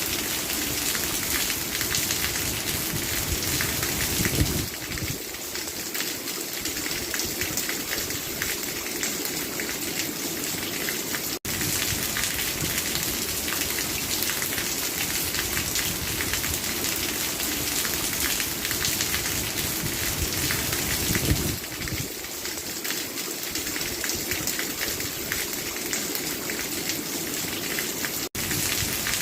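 Steady rain falling, a dense patter of drops. A low thump comes about four seconds in and again some seventeen seconds later, and the sound cuts out for an instant twice.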